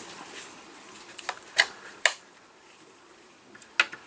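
Four short, sharp clicks and knocks of tools and parts being handled during engine assembly, spread over a couple of seconds with a gap before the last one.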